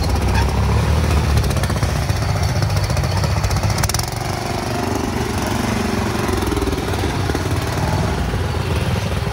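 Small single-cylinder or twin riding-mower engines running together in a steady low rumble with a fast, chattering firing pulse. It eases off a little about four seconds in.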